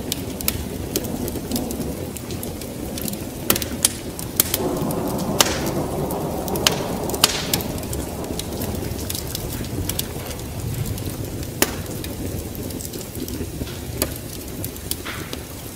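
Wood fire crackling with scattered sharp pops over steady rain, with a low thunder rumble that swells about four seconds in and fades a few seconds later.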